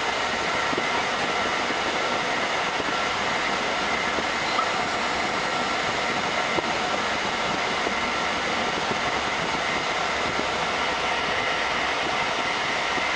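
Passenger train running, heard from inside the carriage: a steady rumble and hiss of wheels on rails, with a couple of faint clicks.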